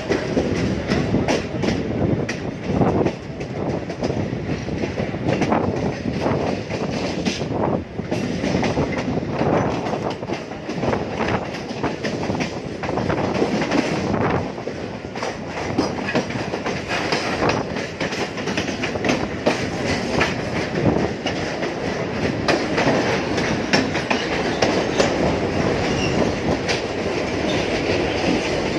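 Mumbai suburban local electric train running, heard from its open doorway: a steady rumble of wheels on rail with frequent clacks as the wheels cross rail joints and points.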